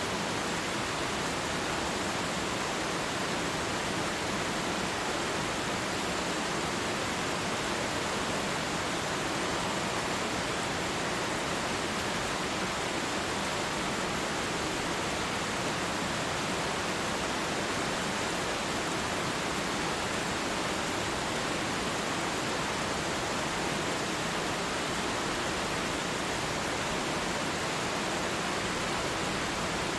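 Waterfall, water falling in a steady, even hiss with no separate splashes or changes.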